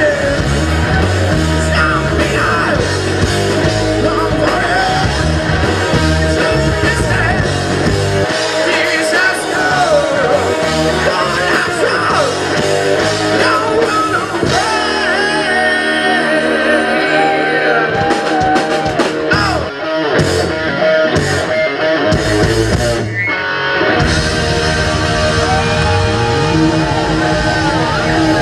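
Live rock band playing loud, with a singer over guitars, bass and drums. About halfway through, the bass and drums drop out for several seconds, leaving guitar and voice. The full band crashes back in a few seconds before the end.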